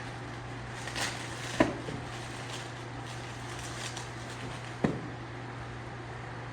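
Cooking gear knocking: a light clatter about a second in, a sharp knock about a second and a half in, and another knock near five seconds, over a steady low hum.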